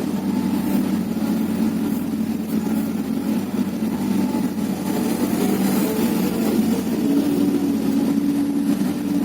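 Hyundai 330LC-9S excavator's diesel engine running steadily with a continuous drone; one tone in it steps up slightly about seven seconds in.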